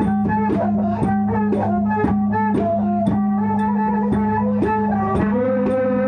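Traditional Khmer-Surin ritual music for a Mamuat dance: a melody instrument gliding over a steady drone, with a regular beat of drum strokes and high ticks about twice a second.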